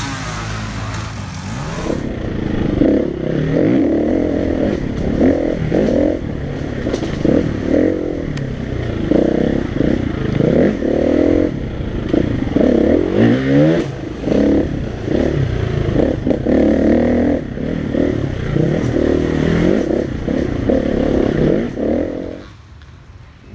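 KTM 350 EXC-F single-cylinder four-stroke enduro motorcycle engine, heard close up from the helmet camera, revving up and down over and over as the bike is ridden hard along a dirt track. It cuts off suddenly about a second before the end.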